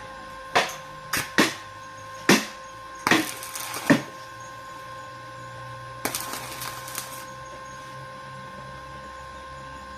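A handful of sharp knocks, spread over the first four seconds, then about a second of crackling hiss around six seconds in, over a steady electrical hum.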